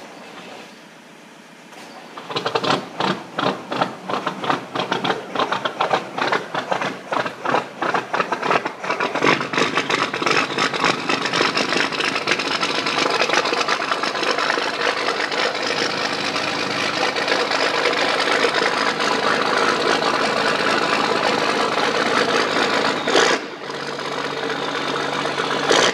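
1990 International six-wheel truck's engine cold-starting after sitting for two months. It catches about two seconds in and runs rough and uneven for several seconds, then settles into steady running that drops quieter near the end.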